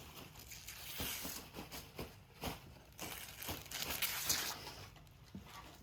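Paper crinkling and rustling in irregular crackles as a present is unwrapped.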